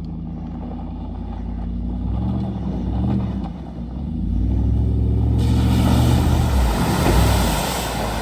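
Pickup truck engine revving in several short bursts, then held high for a couple of seconds before dropping and revving once more, with a rising hiss of noise joining it about five seconds in.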